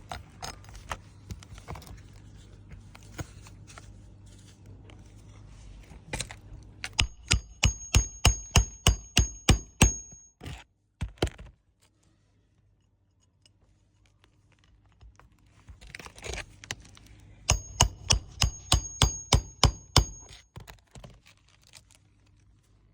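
Two runs of rapid hammer blows, about four a second and a dozen each, with a sharp metallic ring on every blow: roofing nails being driven to fasten a replacement asphalt shingle. Quieter scraping and handling of the shingle comes between the runs.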